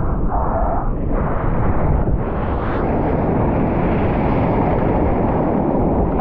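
Loud, steady rumble of wind buffeting the microphone and the rush of breaking surf.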